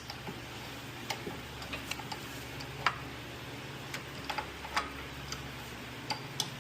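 Ratchet wrench clicking in short, irregular strokes as the lower control arm's rear mounting bolt is screwed in, with a steady low hum underneath.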